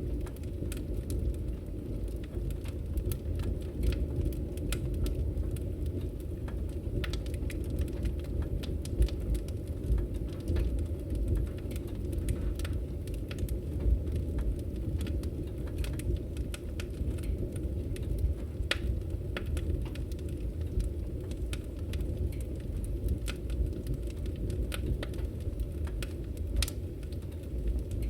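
Firewood burning in a fireplace, crackling: irregular sharp pops and snaps over a steady low rumble.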